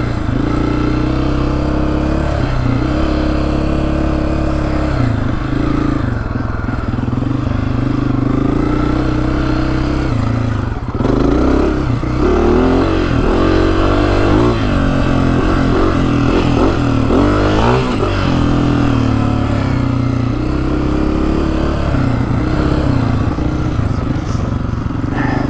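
Honda CRF250F's single-cylinder four-stroke engine pulling the dirt bike along, the revs rising and falling with the throttle and gear changes, most busily about halfway through.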